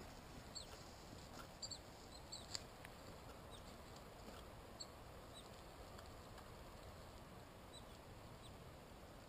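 Quiet woodland with faint, scattered short high chirps from small birds, most of them in the first few seconds.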